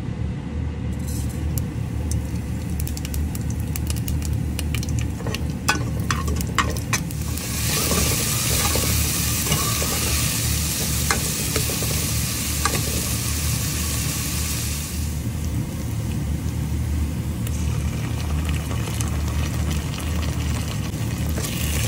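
Cumin seeds crackling in hot oil with scattered sharp pops. About seven seconds in, chopped onions go in and sizzle loudly while being stirred with a metal ladle; the sizzle eases and then picks up again near the end. A steady low hum runs underneath.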